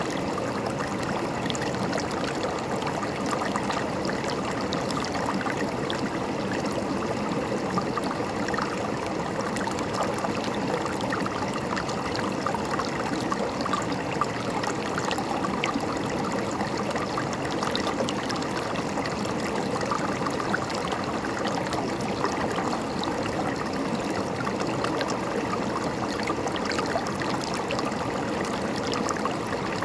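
River water flowing and gurgling, a steady even rush with small splashes scattered through it.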